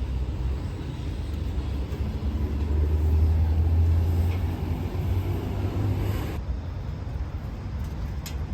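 Low, steady rumble of a vehicle engine that grows louder a few seconds in and then eases off.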